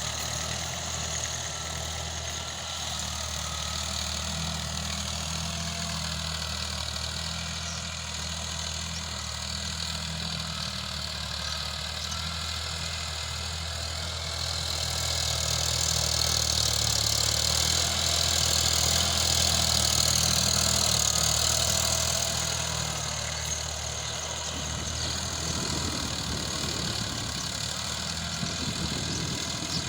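Sonalika RX 50 tractor's diesel engine idling steadily. A hiss rises over it around the middle and then fades again.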